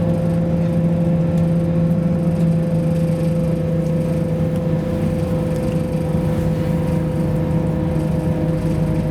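Interior of a Class 172 Turbostar diesel multiple unit under way: its underfloor diesel engine runs with a steady, even hum over the rumble of wheels on rail.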